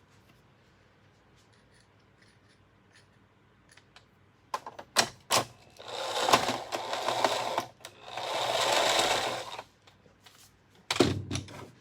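A few seconds of quiet, then clicks and knocks from the vacuum's plastic parts being handled, and two rough rasping noises of about a second and a half each. Loud clicks follow near the end.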